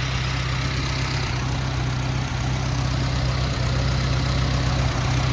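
Allis-Chalmers D15 Series II tractor's freshly overhauled 160 cubic-inch four-cylinder gas engine idling steadily.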